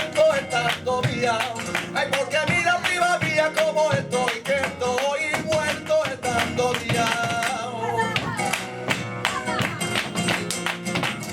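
Live flamenco tangos: a cante singer holds a wavering, ornamented line over flamenco guitar, with sharp rhythmic clicks throughout. The voice stops about two-thirds of the way through and the clicks grow dense.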